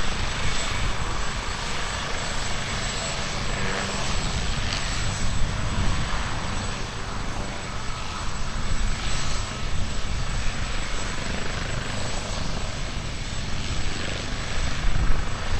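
AgustaWestland AW139 twin-turbine helicopter running, a steady rotor and turbine noise with a dense low rumble and a thin, steady high whine.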